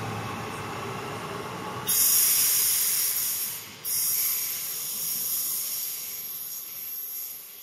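Electric passenger train pulling away into the tunnel, a low rumble with a faint steady motor tone. About two seconds in it gives way abruptly to a loud steady hiss, which breaks off briefly near the middle and then fades.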